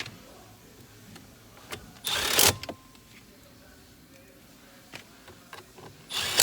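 Two short whirring bursts of a small electric motor, each about half a second long and about four seconds apart, typical of a cordless driver running in fasteners. A few faint clicks come between them.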